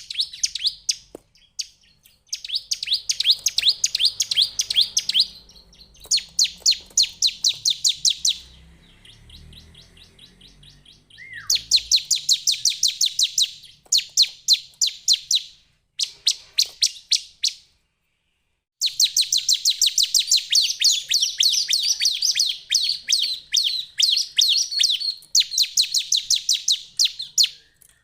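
Bar-winged prinia singing: loud, rapid trains of sharp repeated chirps, several a second. Each burst lasts a second or few, with short breaks between, and there is one long unbroken run in the last third.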